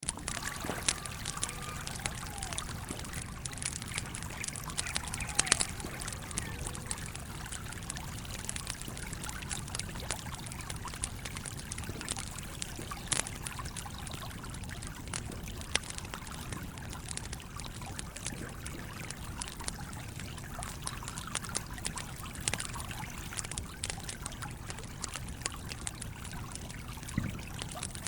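A stream trickling and flowing steadily, with a wood campfire crackling in many sharp, irregular pops over it.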